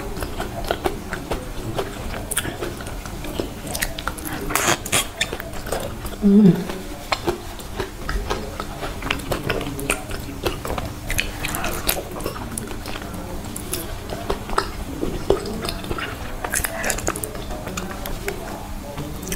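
Close-up mouth sounds of someone eating soft, creamy durian flesh: wet chewing, smacking and many small sticky clicks throughout. About six seconds in comes a brief hummed voice sound, the loudest moment.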